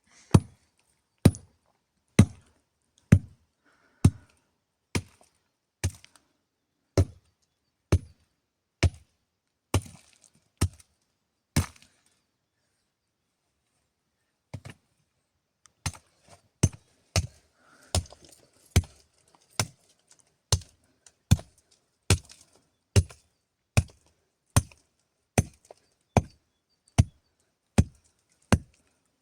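Steady chopping: sharp single blows about once a second. They stop for a few seconds near the middle, then resume a little faster.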